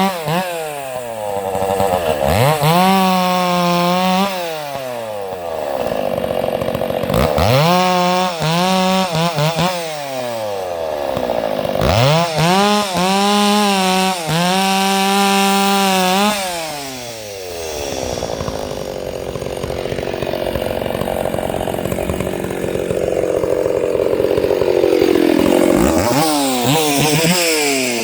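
Stihl 064 two-stroke chainsaw revved up to full throttle and dropped back several times, then held in a cut for several seconds, its pitch sagging under load, and revved again near the end.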